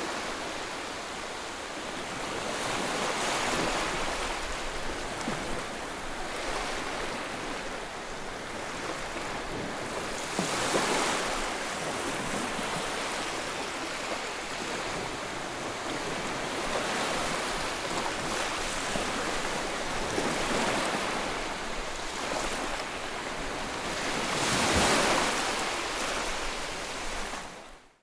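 Ocean surf: a steady wash of waves, with breakers swelling up every several seconds. The sound cuts out suddenly to silence right at the end.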